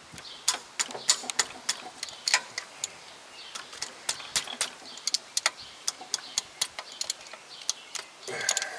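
Socket ratchet clicking in quick irregular runs as it is worked back and forth, loosening the 14 mm starter motor mounting bolt.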